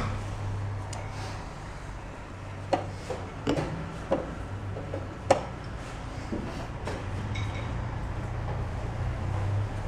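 A few sharp wooden knocks of chess pieces being set down and a chess clock being pressed during a rapid game, over a steady low hum.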